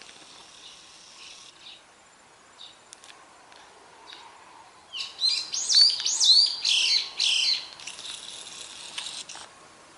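A songbird singing: faint high chirps at first, then about five seconds in a loud run of quick chirps sliding up and down in pitch for two to three seconds, trailing off into fainter chirping.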